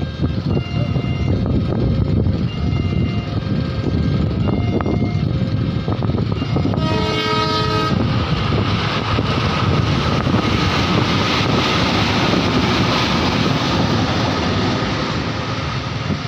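A train running through a railway level crossing with a heavy rumble. Its horn sounds once for about a second, about seven seconds in, then the wheels run past over the rails. The crossing's warning siren repeats a short tone pattern during the first few seconds.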